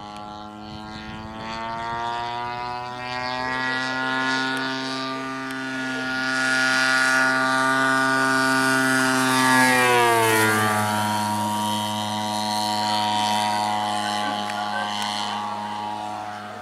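Petrol engine and propeller of a 35% scale Hangar 9 Extra 300 RC aerobatic plane in flight, a steady note growing louder, then dropping sharply in pitch about ten seconds in and running on at the lower note.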